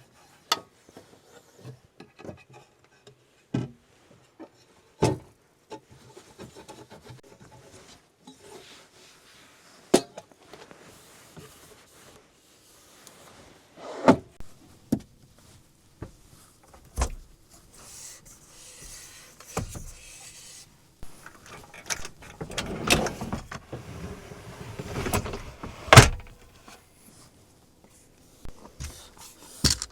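Scattered knocks and clicks at irregular intervals, with a longer stretch of rustling and clattering about two-thirds of the way through and a sharp knock near the end.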